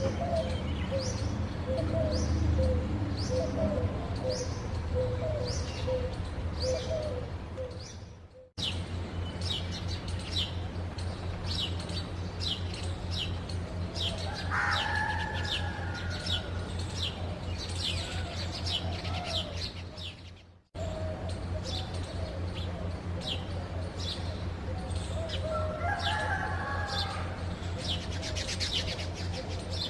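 Animal chirping: short high calls, each falling in pitch, repeated over and over at about one to two a second, with lower whistling calls in places. A steady low hum runs underneath, and the sound cuts out briefly twice.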